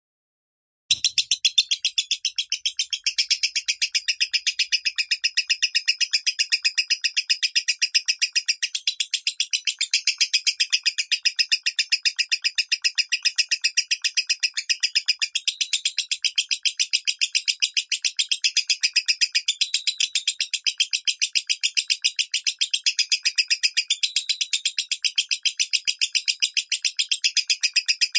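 Lovebird singing in the high, thin 'minor' voice: a rapid, unbroken chatter of shrill chirps that starts about a second in and goes on without a pause.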